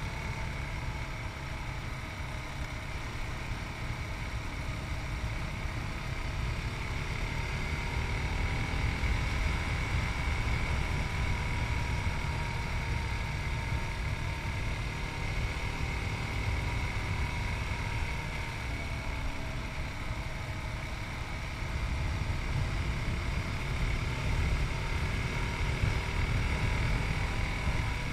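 Yamaha MT-03's 660cc single-cylinder engine running steadily under way, its note drifting gently up and down, with wind rumbling over the microphone.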